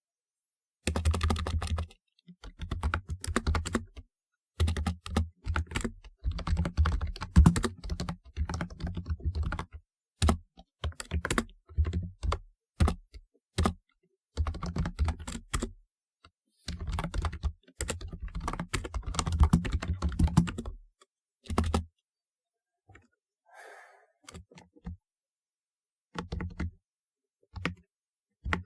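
Typing on a typewriter-style keyboard: rapid runs of key clacks in bursts of a second or more, with short pauses between runs, tailing off to a few single keystrokes near the end.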